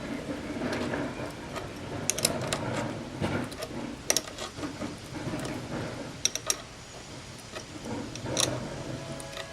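Irregular mechanical clicking and clanking, with scattered sharp metallic clicks.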